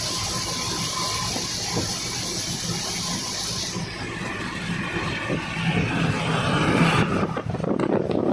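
Steady rumble and rush of a moving vehicle with a strong high hiss over it; the hiss cuts off about four seconds in, and near the end the noise turns rougher and louder with rapid crackling.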